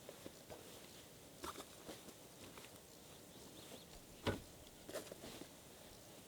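A few scattered soft knocks and clicks over a faint steady hiss, the sharpest knock about four seconds in.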